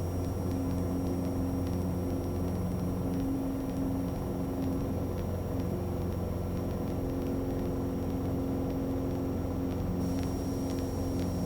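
Cessna 177B Cardinal's four-cylinder engine running steadily at full takeoff power, heard from inside the cockpit as the plane accelerates and lifts off.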